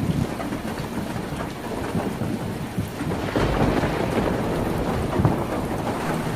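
Heavy rain drumming on a tin roof, a dense steady patter with a deep rumble underneath that grows a little louder about halfway through.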